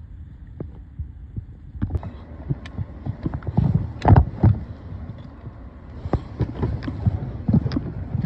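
Irregular low thumps and knocks, a few a second and loudest about four seconds in, over a steady low rumble, like footsteps and knocks from handling a phone.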